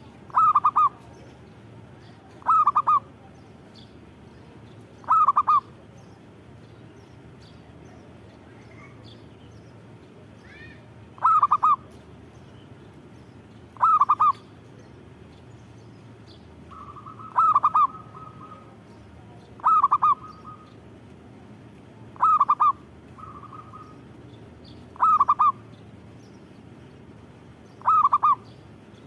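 Zebra dove (perkutut) cooing: short trilled coos repeated every two to three seconds, about ten in all, with a longer pause after the third.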